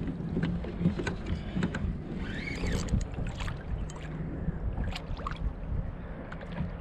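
Water lapping and knocking against a plastic fishing kayak's hull, with scattered clicks and knocks from handling rod and gear while a hooked gummy shark is played, and a short high-pitched sound about two and a half seconds in.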